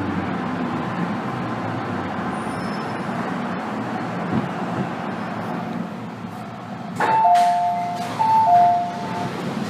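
Steady hum of an MTR M-Train carriage interior. About seven seconds in, a clunk and a two-note high-then-low chime sounding twice, the train's door-opening signal at a station stop.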